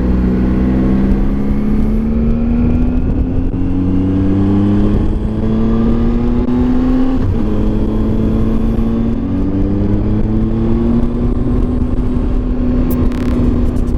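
Triumph Tiger 800 XRt's three-cylinder engine pulling under load. Its pitch climbs steadily, drops sharply at an upshift about seven seconds in, then rises again and settles to a steady cruise, over a low rumble of wind and road noise.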